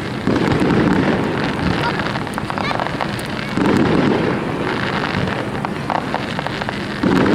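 Aerial fireworks: three heavy booms about three seconds apart, with a dense crackling patter between them.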